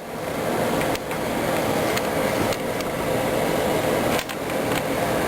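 Steady rushing noise of a fan running in the room, with a couple of brief dips in level.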